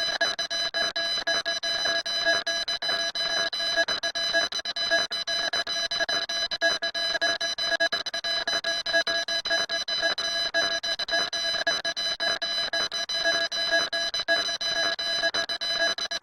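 Harsh, steady electronic alarm-like tone with several pitches at once and a rapid flutter, unchanging throughout.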